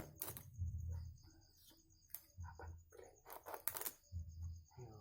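Night field ambience: a steady, evenly pulsing high insect trill, with scattered clicks, knocks and low bumps of handling close to the microphone.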